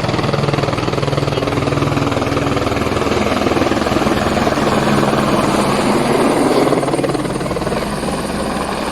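Airbus H125 helicopter flying close and loud during a firefighting demonstration: a steady, rapid beat of the main rotor blades over the running turbine engine.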